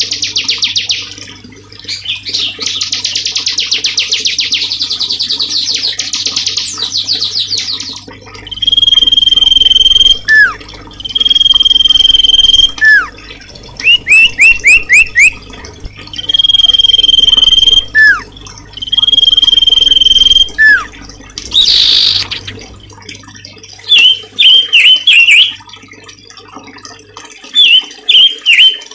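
Songbird song from a bird-training (masteran) recording: a long, fast, buzzy trill for about the first eight seconds, then loud steady whistles about a second and a half long, repeated four times, alternating with short falling notes and quick runs of chirps.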